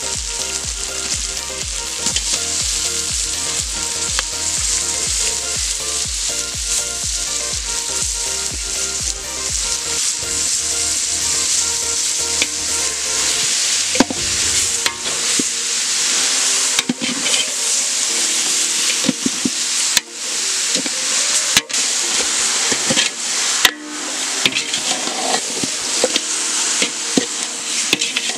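Raw chicken pieces sizzling loudly as they fry in hot oil in a large aluminium pot, stirred with a metal ladle that clicks and scrapes against the pot in the second half.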